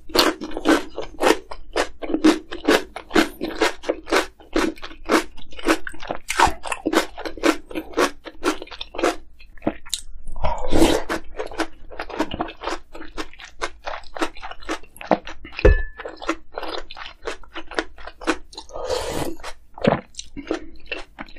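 Close-miked crunchy chewing of kimchi, with wet crunches about three times a second. There is a louder mouthful about ten seconds in and a single knock about sixteen seconds in.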